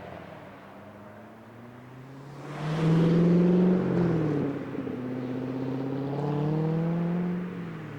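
A car accelerating hard away, its engine pitch climbing, dropping briefly about four seconds in as if at a gear change, then climbing again as it fades.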